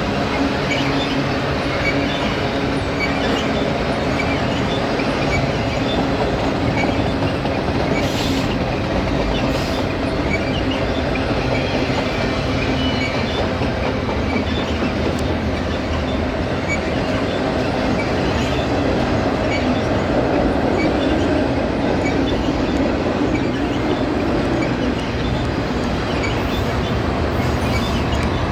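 BNSF double-stack container freight train passing close by, with a loud, steady, unbroken sound of the cars rolling on the rails.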